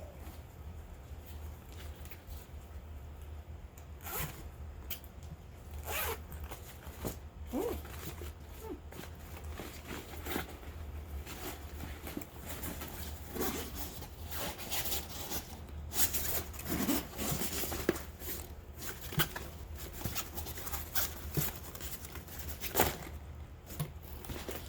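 Packaging being handled and opened by hand: irregular rustling, scraping and short zip-like pulls, busiest in the second half.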